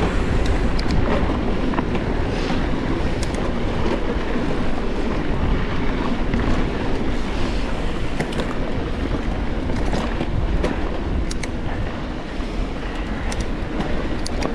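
Wind rushing over the microphone and knobby tyres rolling over a dirt trail as an e-mountain bike descends at speed, with scattered clicks and rattles from the bike.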